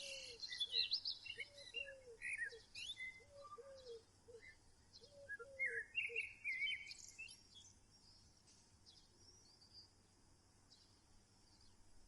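Birds calling: many short chirps and whistled notes, with a lower arched call repeated in groups of two or three. The calls die away about seven seconds in, leaving near silence.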